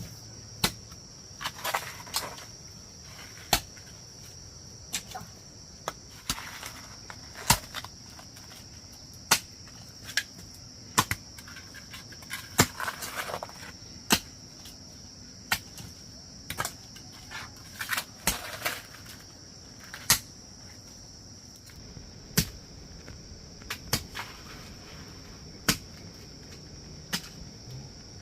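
Sharp knocks of a hand tool striking, about one every one to two seconds, with a few short scraping sounds between them. A steady high-pitched drone of insects runs underneath.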